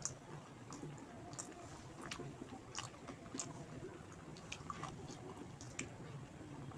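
A person chewing a mouthful of rice and fish curry, with scattered short wet mouth clicks and smacks over a low steady hum.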